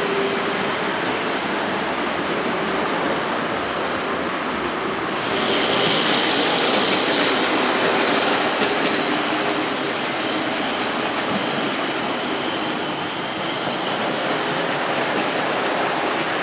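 Model train running on a layout: the small electric motor and the wheels running on the track give a steady rattling hum. A higher whine comes in about five seconds in and fades after about nine seconds.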